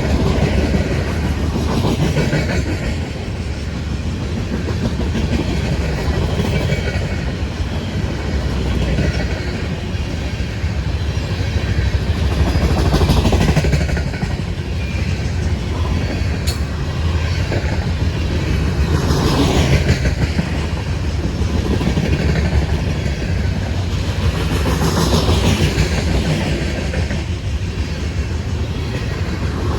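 CSX freight train rolling past, its freight cars making a steady rumble and clatter of wheels on rail.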